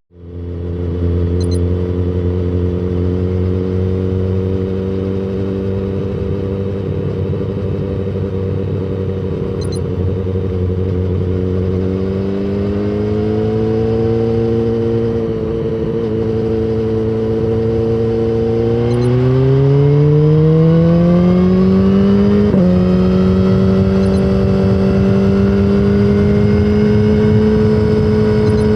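BMW S1000RR inline-four sport bike engine running on the road. The note holds steady, climbs in pitch as the bike accelerates a little before the middle, then climbs again more steeply and settles at a higher, steady pitch for the last third.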